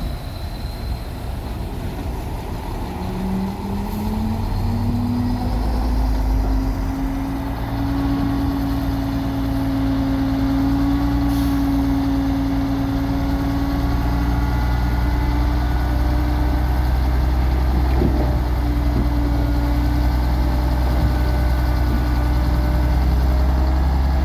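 Heavy diesel engine of earthmoving machinery running. The engine speeds up over the first several seconds, then holds at a steady, loud speed.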